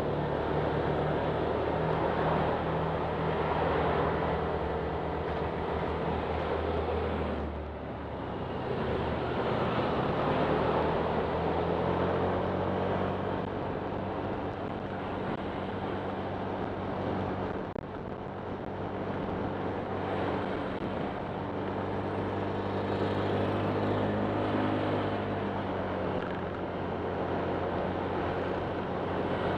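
Honda Click 125 scooter's single-cylinder four-stroke engine running under way, its pitch shifting as the throttle changes, over a steady rushing noise. It eases off briefly about seven or eight seconds in, and again around eighteen seconds.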